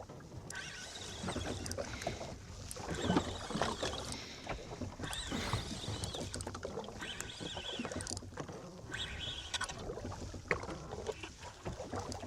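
Sounds aboard a small fishing boat at sea: water washing against the hull and wind on the microphone, with scattered knocks and clicks from handling gear.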